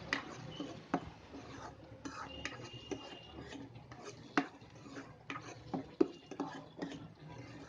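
A spoon clinking and scraping against a cooking pan as food is stirred, in irregular knocks, the loudest about six seconds in.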